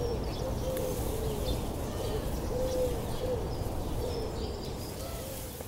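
A bird cooing: a run of short, low hooting notes all at about the same pitch, with faint high chirps from other birds over a low rumble.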